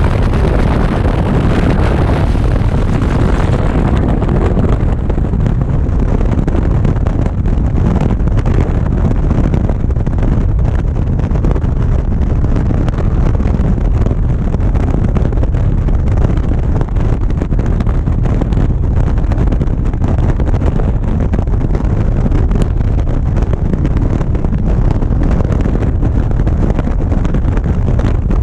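Riding motorcycle at speed, a steady rumble of wind buffeting the camera microphone over the machine's running noise. A higher hiss eases off about four seconds in.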